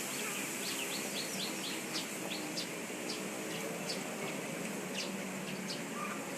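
Small birds chirping, short high chirps coming two or three a second, over a steady high insect hiss.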